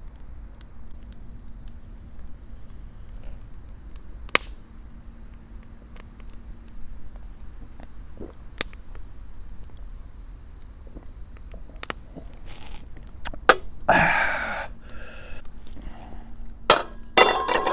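Campfire crackling with scattered sharp pops under a steady high-pitched insect trill. Near the end come a few louder clattering knocks of cookware.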